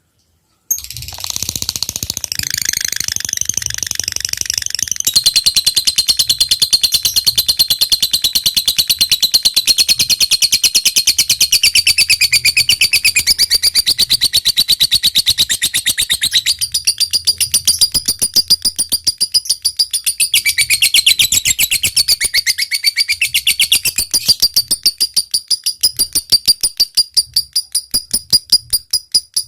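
Lovebird chattering in a long, rapid trill of high, repeated notes (the 'ngekek panjang' of a gacor bird). It starts about a second in and runs on almost without a break, loosening near the end.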